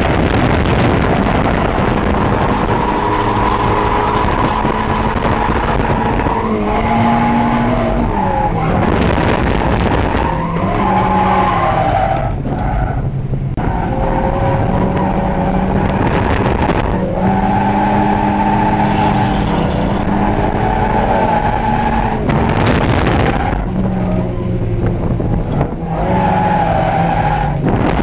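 Mazda Eunos Roadster's swapped-in B6ZE 1.6-litre four-cylinder engine, heard from inside the cabin, revving hard with its pitch rising and falling as the throttle and gears change, and tyres skidding. The engine note drops away briefly a few times.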